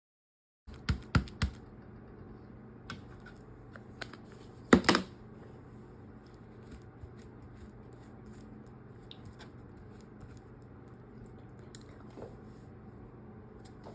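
Small objects handled on a craft table: three sharp taps about a second in, a louder double knock about five seconds in, then light scattered clicks.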